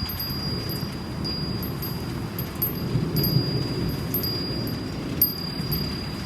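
A Japanese wind chime ringing one high, clear tone, struck again every second or so, over the steady noise of a rainstorm.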